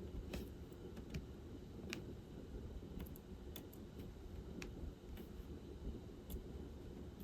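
Light, irregular clicks, roughly one a second and sometimes two in quick succession: a diamond painting pen picking up drills and tapping them onto the canvas. A faint low hum runs underneath.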